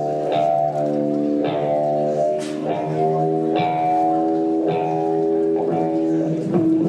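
Guitar playing slow chords, each plucked and left to ring, with a new chord about once a second.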